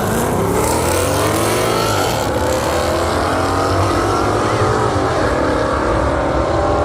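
Mopar muscle cars racing down the track, their engines at full throttle with several overlapping pitches climbing as they accelerate.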